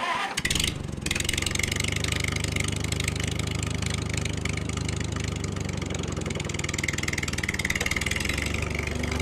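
Engine sound starting up abruptly with a short burst, then idling steadily.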